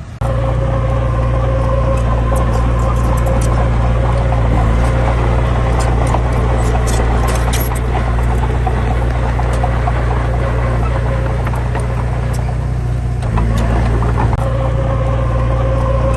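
Heavy vehicle's diesel engine running steadily at a constant pitch, with faint rattling ticks over it and a slight shift in tone about thirteen seconds in.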